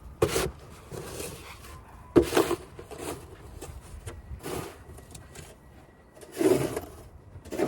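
Snow shovel scraping and scooping snow in repeated, irregular strokes, with louder scrapes about two seconds in and near the end.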